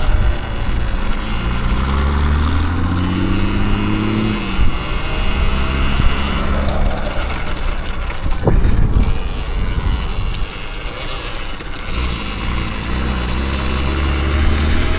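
Electric dirt bike riding, its motor whine rising in pitch as it speeds up, over a heavy low rumble. There is one sharp knock a little past halfway.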